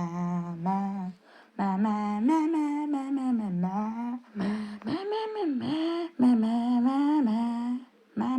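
A person humming a wordless tune in long held notes that slide up and down in pitch, breaking off briefly twice.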